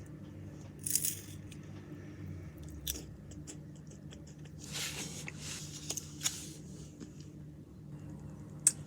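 Scattered crunching and crackling with a few sharp clicks, over a low steady hum.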